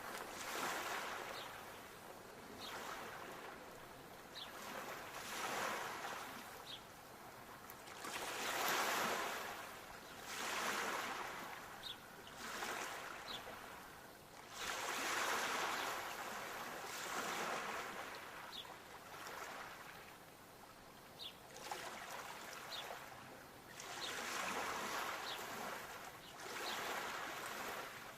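Small sea waves washing in and lapping, a rushing swell every second or two, some louder than others.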